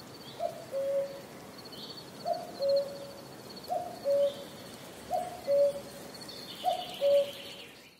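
A bird calling a repeated two-note phrase, a short higher note then a longer lower one, five times about every second and a half, with a faint high trill behind it.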